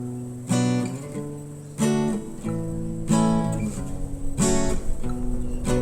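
Background music: acoustic guitar strumming chords, one strum about every second and a quarter, each ringing out before the next.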